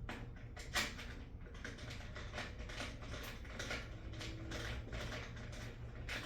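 Irregular clicks, taps and scrapes of metal parts and hand tools being handled while a bolt is worked back into a lawnmower, over a steady low hum.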